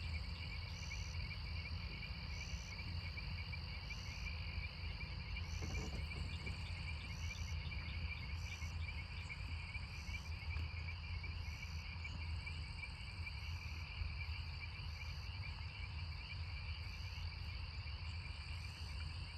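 Evening chorus of frogs and insects after rain: a dense, steady trilling, with a higher call repeating about every second and a half, over a low steady rumble.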